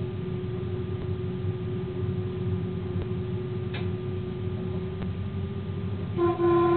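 Running noise in a train's driver's cab: a steady low rumble with a constant hum and faint clicks about once a second. Near the end the locomotive's horn starts a long blast.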